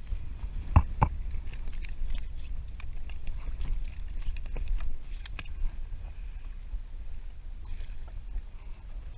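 Water sloshing against a fishing kayak's hull, under a steady low rumble of wind on the microphone. Two sharp knocks come about a second in, with scattered light taps after.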